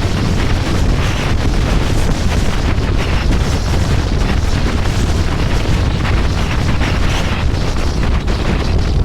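Steady wind buffeting the camera microphone on a moving motorcycle, over the low rumble of a Harley-Davidson Electra Glide's V-twin engine running at cruising speed.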